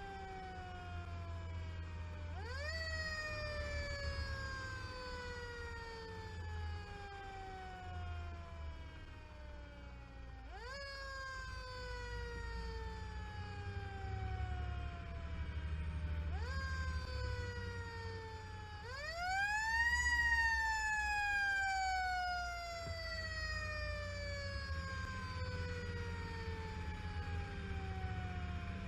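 Fire engine siren winding up quickly and then falling slowly in pitch, sounded four times, the last two close together and the last the loudest. Under it runs the steady low rumble of the fire truck's engine.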